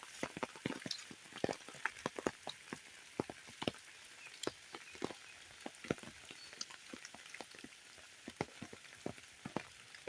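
Rain falling, with a steady hiss and many close, irregular drops striking surfaces.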